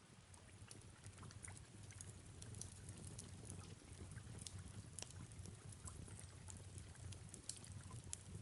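Faint fireplace crackling, scattered sharp pops and snaps, over soft steady rain and a low rumble.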